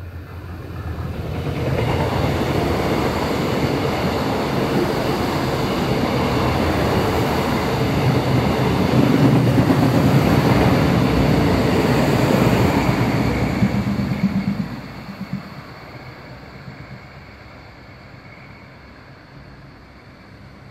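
A string of DB class 628 diesel multiple units passes on the track. The sound builds over the first two seconds, stays loud for about twelve seconds, then falls away quickly as the train leaves.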